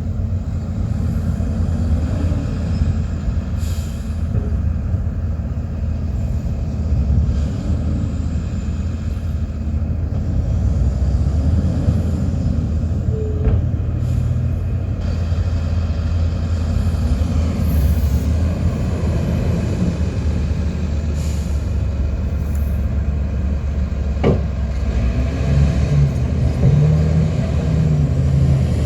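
Heavy diesel earthmoving machinery running continuously: a deep, steady engine rumble with the pitch wavering as the machine works under load. There is one short, sharp knock late on.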